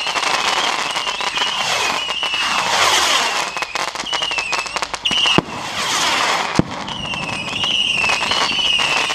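Fireworks going off: dense crackling with a high, wavering whistle through much of it, and a few sharp bangs in the second half.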